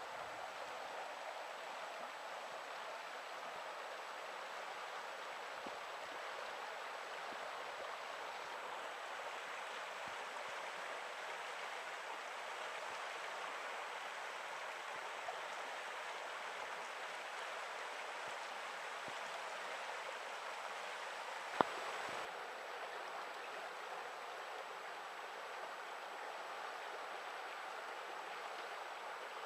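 Small mountain river running over stones, a steady rush of water. A single sharp click about twenty seconds in.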